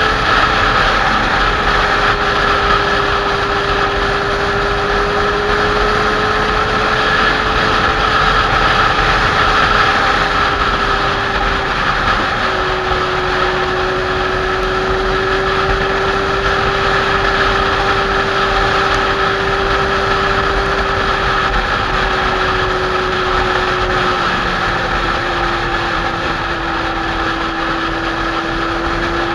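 Kawasaki Z800's inline-four engine running steadily while the motorcycle cruises, with a constant rush of wind over the camera. Its note steps slightly lower twice as the speed eases.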